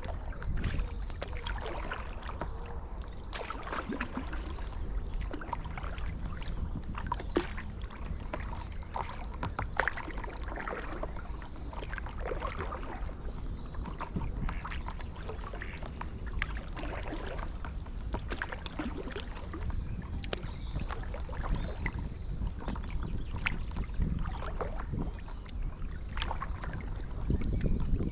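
Paddle strokes in calm canal water: repeated dips and splashes with drips and small crackles, over a steady low rumble of wind on the microphone.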